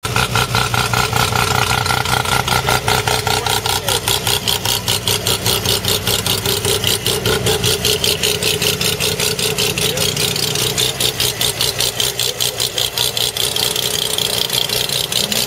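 Mazda rotary (Wankel) engine in a Datsun 1200 idling steadily through its exhaust, a fast, even train of choppy pulses.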